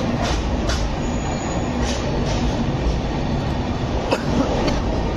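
Passenger train coaches rolling slowly out of a station, a steady low rumble with a few sharp clicks from the wheels.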